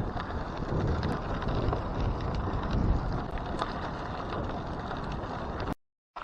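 Wind rushing over the microphone of a bicycle being ridden at speed on a gravel trail, with the rolling noise of its 32 mm gravel tyres and scattered small ticks. The sound cuts off abruptly near the end.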